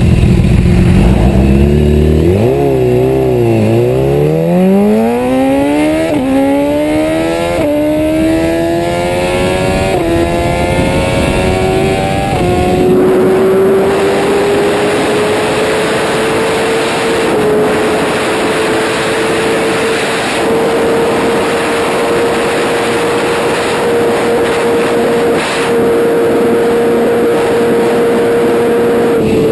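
Superbike engine accelerating hard through the gears. The pitch climbs and drops back at each upshift, four quick shifts in the first half, then holds a steady high pitch at top speed.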